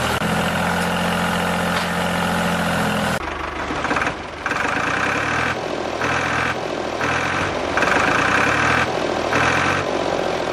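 Small electric motor of a DIY model tractor running with a steady whine. About three seconds in the sound changes abruptly, and from then on it comes in repeated pulses of just under a second each.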